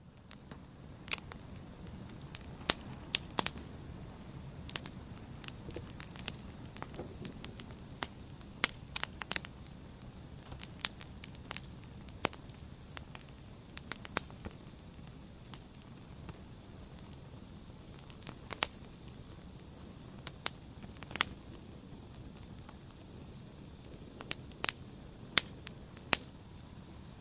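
Wood fire burning in a fireplace: sharp crackles and pops at irregular intervals over the low, steady sound of the flames.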